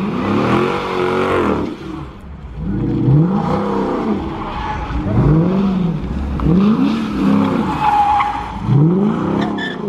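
A car doing donuts, its engine revving in repeated rising-and-falling sweeps about every second and a half, with tyres skidding on the pavement.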